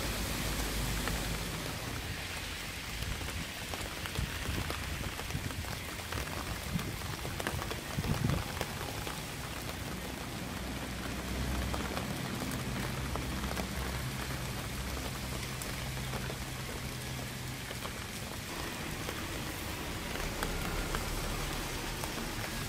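Steady rain falling, with many individual drops ticking over an even hiss and an uneven low rumble underneath that swells briefly about eight seconds in.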